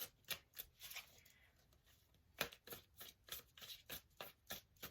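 Tarot deck being shuffled by hand: faint, quick card slaps at about four a second, pausing briefly a second or so in, then resuming.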